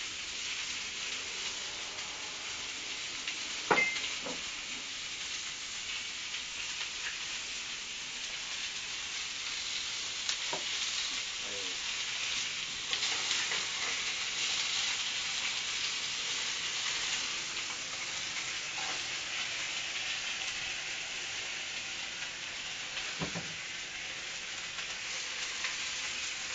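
Food sizzling steadily as it fries in a hot pan, with a sharp knock about four seconds in and a few fainter clicks later on.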